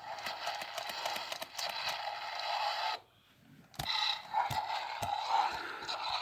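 Sound chip of a Mattel Jurassic World Baryonyx toy playing its roar through the tiny built-in speaker, coming out as a garbled, crackly hiss: its sound is faulty. Two bursts with a short break between them, and a few sharp clicks during the second.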